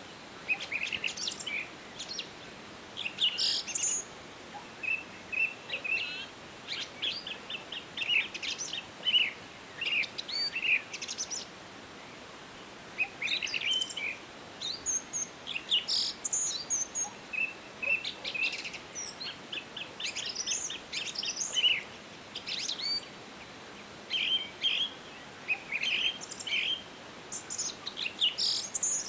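Songbirds singing and calling in a busy dawn-chorus-like mix of short chirps, quick trills and high thin notes that come in clusters every second or two, over a faint steady hiss of forest ambience.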